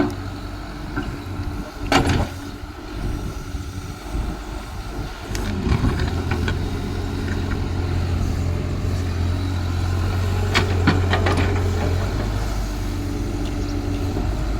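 Caterpillar excavator's diesel engine running steadily, with a sharp knock about two seconds in and a few more knocks a little past the middle.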